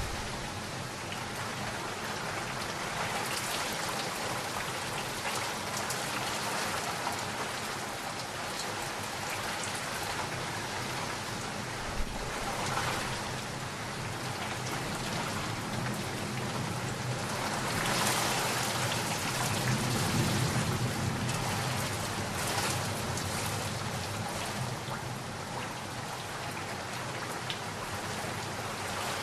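Steady rain falling, with a low rumble of thunder swelling and fading about two-thirds of the way through, and a single sharp tap near the middle.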